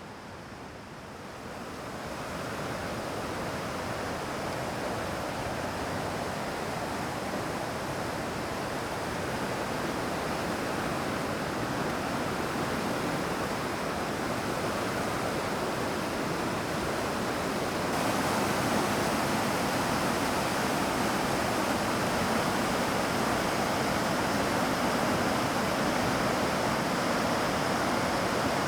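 Steady rushing of water in a mountain stream or small waterfall. It fades in over the first couple of seconds and steps a little louder about two-thirds of the way through.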